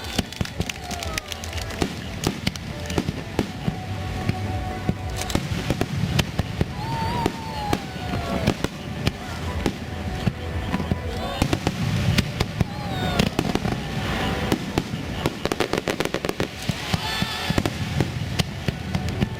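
Aerial fireworks bursting: a dense, continuous crackle of rapid pops over low booming rumble.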